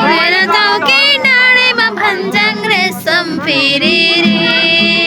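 High voices singing a Nepali folk song, sliding between notes and holding a long note near the end, over a steady low hum.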